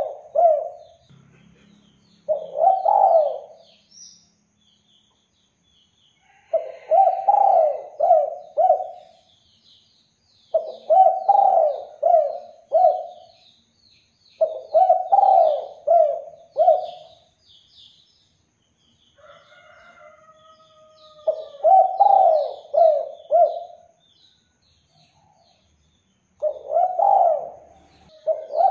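Spotted dove (tekukur) cooing: a series of multi-note coo phrases repeated every few seconds, with small birds chirping faintly and high in the background.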